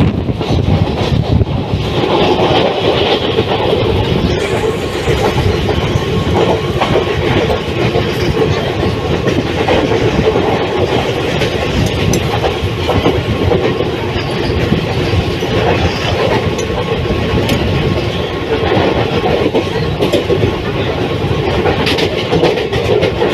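Mumbai suburban local train running, a steady rumble with wheels clacking over the rail joints.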